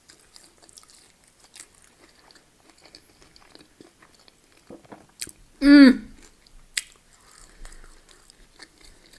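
Close-miked chewing of a chunky chip, with many small wet mouth clicks. About six seconds in comes one short, loud hum of the voice.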